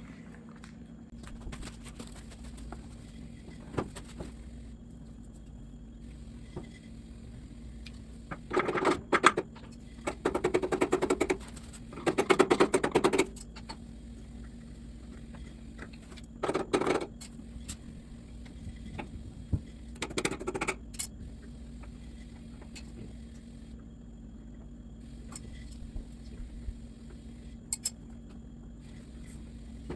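Rapid clicking in about five short bursts of a second or so each, from a wrench undoing the rear wheel fasteners of a garden tractor, with a few single clicks of the tool between the bursts and a steady low hum underneath.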